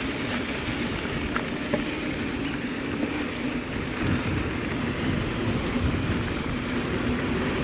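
Mountain bike rolling along a dirt trail: steady tyre and drivetrain noise mixed with wind on the microphone, with scattered small clicks and rattles.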